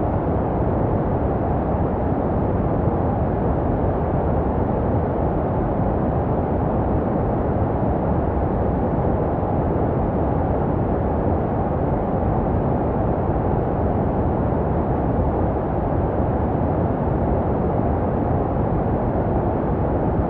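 Steady, deep, muffled sleep noise for babies, made to resemble the sounds heard in the womb. It is an even rush with no rhythm or change, heavy in the low end and dull at the top.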